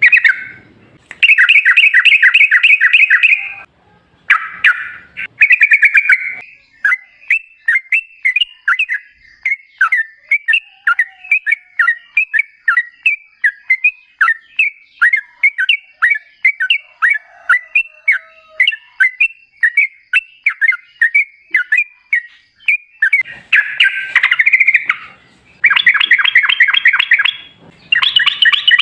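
Yellow-vented bulbul (trucukan) singing. Fast, dense chattering phrases open and close the stretch, and through the middle runs a long string of short separate bubbling notes, two or three a second: the long 'ropel' song.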